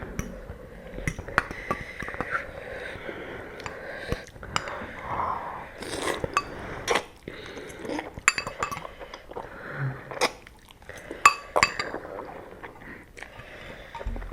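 Utensils clinking and tapping against bowls and dishes, many short separate clicks, with quiet chewing and eating noises of noodles being eaten in between.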